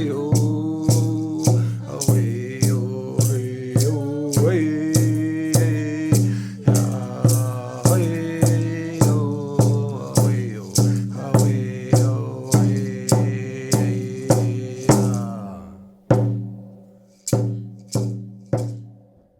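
Mohawk dance song: voices singing over a steady drum beat, a little under two strokes a second. The singing stops about 15 seconds in, and a few last, more widely spaced drum strokes end the song.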